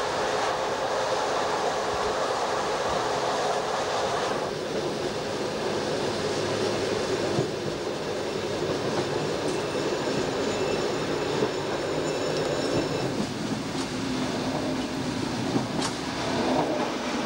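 Electric railcar running along the line, heard from inside the driver's cab: steady running noise of wheels on rails, with a faint high-pitched whine for a few seconds around the middle.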